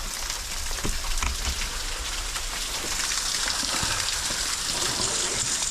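Steady hiss of heavy rain, with scattered drips and taps, growing a little louder from about halfway through.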